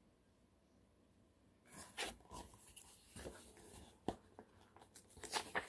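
Near silence, then a book's paper pages rustling and being handled, with scattered light clicks and one sharp click about four seconds in.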